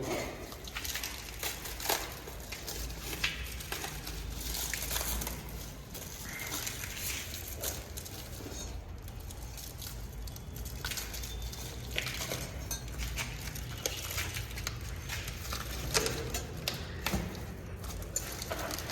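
Rustling and scattered light clinks and knocks of aftermarket exhaust parts and packaging being handled.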